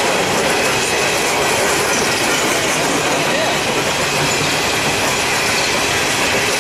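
Railroad cars rolling past on the track: a steady, loud rush of wheel-on-rail noise that does not rise or fall.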